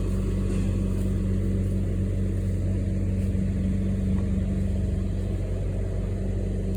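An engine idling steadily: a low, even hum that holds without revving.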